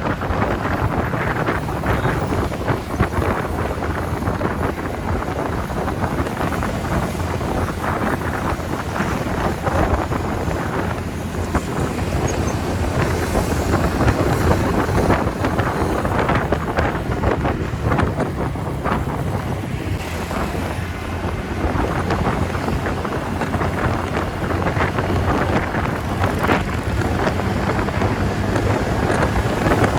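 Wind rushing over the microphone of a rider at speed on a TVS Ntorq scooter, steady throughout, with the scooter's single-cylinder engine running underneath.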